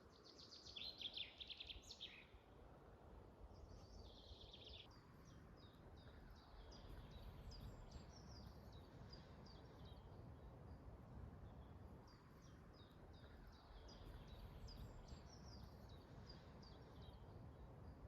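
Faint birdsong: two short trilling bursts in the first few seconds, then a run of quick, repeated high chirps, over a low steady background rumble.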